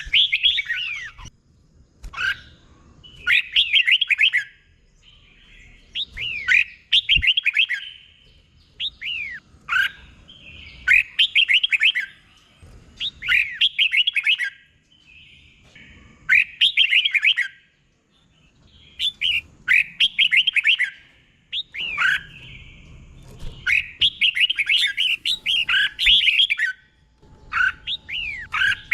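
Red-whiskered bulbul singing in the doubled 'beun' style: short, clear, slurred warbling phrases repeated about every two to three seconds, with brief pauses between them.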